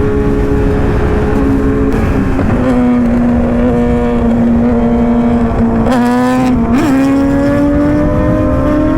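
Sport motorcycle engine running at steady high revs over a rush of wind noise, its pitch creeping slowly upward, with brief dips and recoveries in pitch about two and six seconds in.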